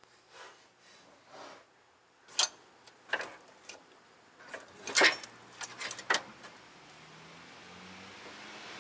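A few sharp knocks and clanks of tools and parts being handled during repair work, the loudest about five seconds in. Near the end the noise of an approaching car rises steadily.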